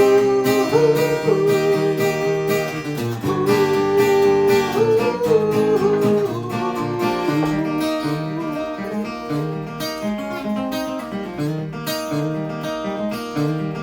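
Acoustic guitar playing an instrumental passage of picked notes and strums in a steady rhythm, with a sustained melody line over it in the first half.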